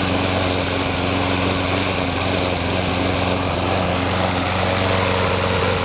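Sears Craftsman 21-inch push mower's single-cylinder Briggs & Stratton engine running steadily while mowing grass. The engine has a skip (a misfire) that the owner hopes will clear itself; he suspects gook in a valve or a scratched cylinder wall.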